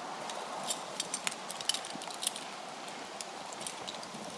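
Climbing hardware clicking and clinking as it is handled: a series of light, irregular clicks over a steady outdoor hiss.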